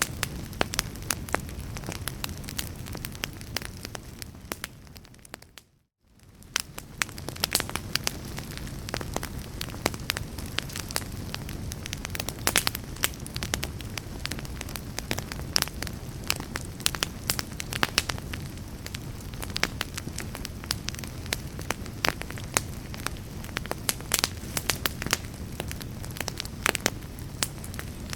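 Wood fire burning in a fireplace, a steady low rumble of flames with many irregular sharp crackles and pops. About four seconds in the sound fades away to near silence for a moment, then fades back in.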